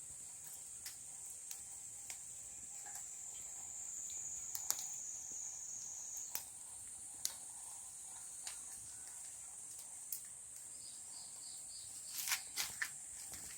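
Insects chirping in a steady high-pitched drone, with scattered sharp clicks and snaps over it and a short cluster of them near the end.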